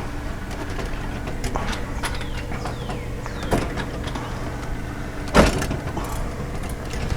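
Scattered clicks and knocks of bolts and coop parts being handled during assembly, with one louder knock about five seconds in, over a steady low hum.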